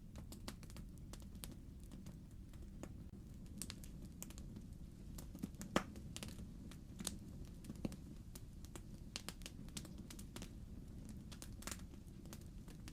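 Wood fire crackling in a fireplace: irregular small pops and snaps, a couple of them louder, over a low steady rumble.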